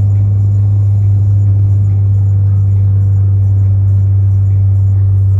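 Loud, steady low hum with almost nothing over it.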